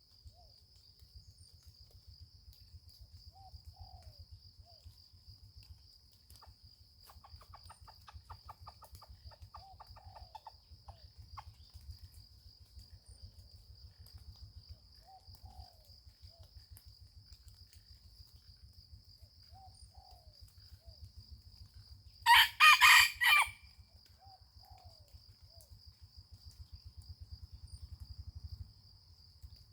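A rooster crows once, loud and lasting about a second, about three-quarters of the way in. Behind it a steady high insect whine and a low rumble of patter run throughout, with a few faint distant calls.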